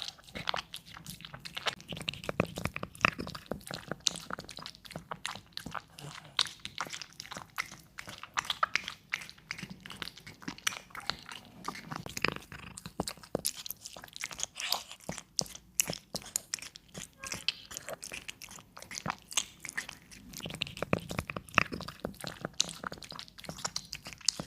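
A cat eating: rapid, crunchy chewing and biting, a dense run of irregular clicks that keeps up throughout.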